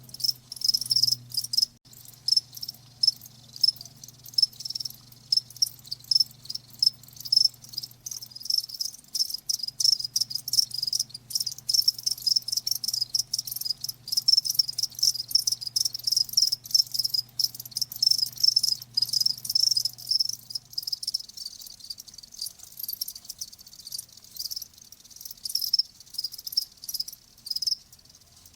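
Crickets chirping, many short high-pitched chirps overlapping in an uneven, continuous chorus. A faint low hum sits underneath and stops about three-quarters of the way through.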